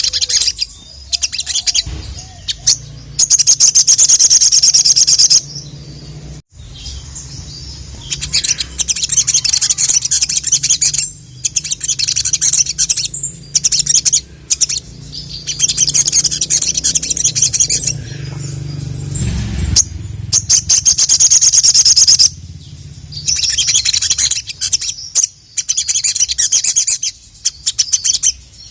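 A sogon (sogok ontong) sunbird singing its full song: runs of rapid, high-pitched chattering a few seconds long, separated by short pauses. A faint low hum lies underneath.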